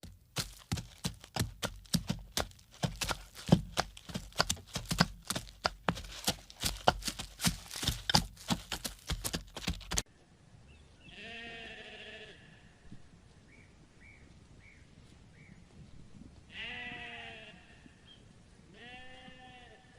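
Rapid, irregular clicking and knocking for about ten seconds, cutting off suddenly. Then a farm animal bleats three times, with a few faint short chirps in between.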